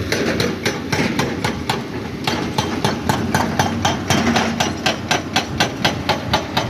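Excavator engine running under a fast, regular metallic knocking, about four knocks a second, that settles into an even beat about two seconds in.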